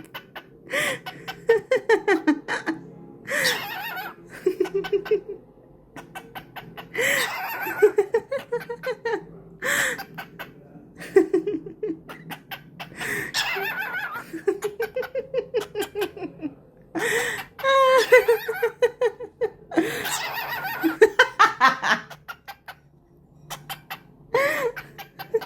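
Cockatiel mimicking human laughter: repeated bouts of quick ha-ha pulses, separated by short pauses.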